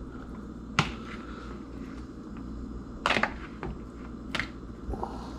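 A few sharp clicks and knocks of a kitchen utensil against cookware while food is stirred or chopped, the loudest a quick cluster about three seconds in, over a low steady hum.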